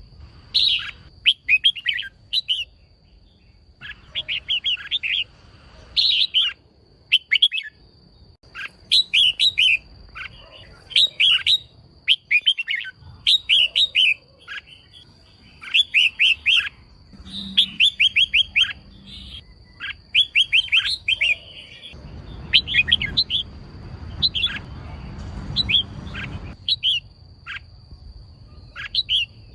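Female red-whiskered bulbul calling: clusters of short, quick chirps repeated every second or two, the female call used to excite male bulbuls into singing. A faint steady high tone runs underneath.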